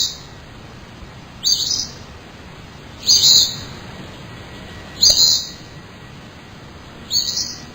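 A bird repeating a short, high chirping call five times, about every one and a half to two seconds, over a steady low hiss.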